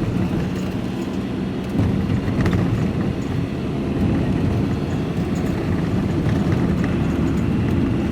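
A lorry's diesel engine running with a steady low rumble.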